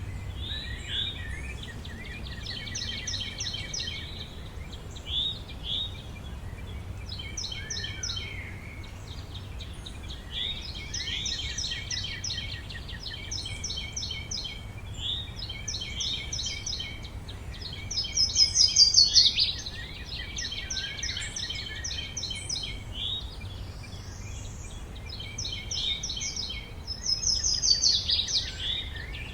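Several songbirds singing, overlapping phrases of quick repeated chirps and trills, over a steady low rumble. The loudest bursts of song come about two-thirds of the way through and again near the end.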